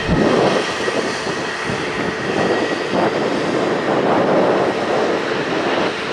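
Jet airliner engine noise at an airport, a steady rushing that swells and fades in gusts, with wind buffeting the microphone and a low thump right at the start.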